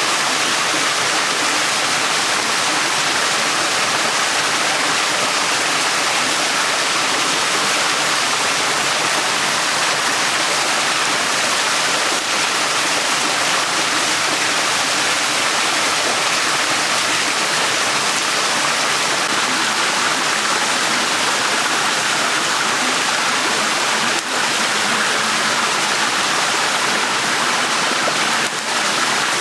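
Shallow stream water running steadily over stones, a continuous babbling rush. A few faint clicks sound near the end.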